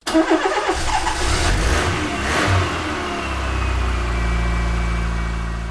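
A car engine starting and revving, then settling to a steady idle that begins to fade out near the end.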